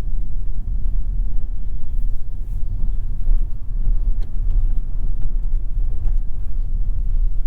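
Steady low rumble of a 2022 Toyota Yaris 1.5 Hybrid being driven, road and drivetrain noise with a few faint clicks.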